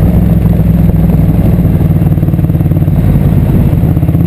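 Motorcycle engine running at a low, steady cruising speed, its note holding nearly even throughout.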